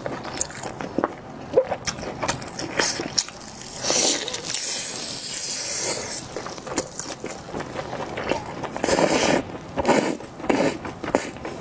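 Close-up eating sounds: wet chewing, squelching and lip smacks as chili-sauced blood sausage is torn and chewed, in quick irregular clicks. A longer hissing sound comes about four seconds in, and stronger wet bursts come near the end.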